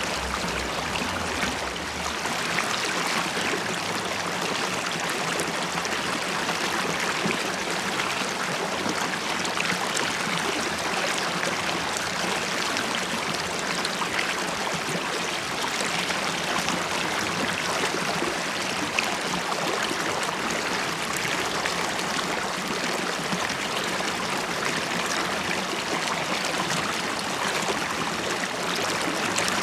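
River water running and bubbling steadily, with many small gurgles and splashes throughout.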